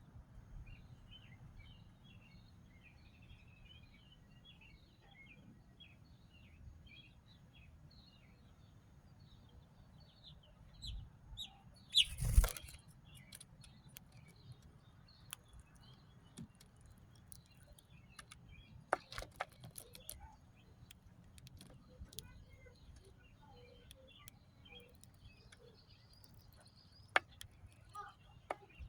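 Small birds chirping, with many short, high chirps repeating. A loud, brief burst comes about twelve seconds in, and several sharp clicks come later.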